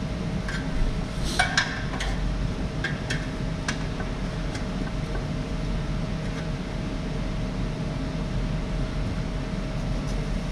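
Sheet metal being worked into place by hand: a scatter of short light clinks and taps, mostly in the first few seconds, over a steady mechanical hum like a shop fan.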